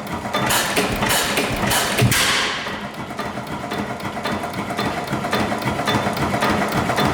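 Dempster 8 HP hit-and-miss engine running, its moving parts making a rapid, even clicking and knocking. A louder rush of noise rises about half a second in and fades away by about three seconds in.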